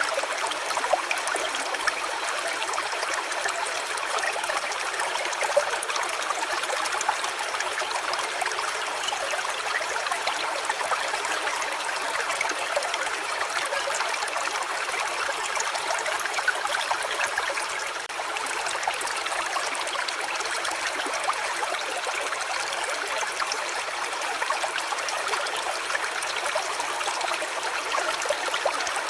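Shallow stream running steadily, a continuous trickling babble of water over stones.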